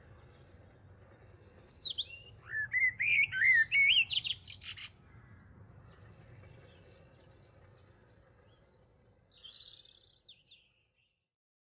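Songbird singing a loud, quick phrase of rising and falling notes for about three seconds, starting about two seconds in, over a faint outdoor background; a few faint chirps follow near the end before the sound cuts off.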